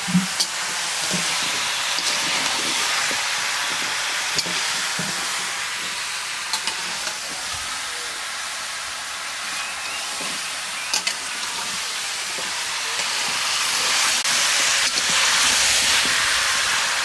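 Chicken curry frying in hot oil in a cooking pot: a steady sizzling hiss with a few clicks of a spoon stirring against the pot. The sizzle grows louder near the end.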